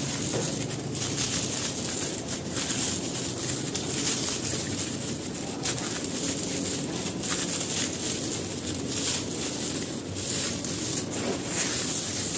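Gritty, crumbly material being crushed and crumbled by hand: a continuous crunching and grinding with many small sharp crackles.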